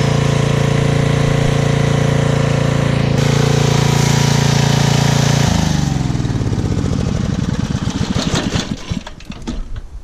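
Concrete core-drilling machine running steadily under power, then shut off about five and a half seconds in, winding down in pitch with slowing knocks until it stops near the end.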